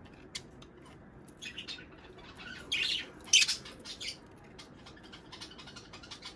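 Small pet parrots (budgerigars and lovebirds) chirping and squawking in a few short, irregular bursts. The loudest burst comes about halfway through, with faint clicks scattered in between.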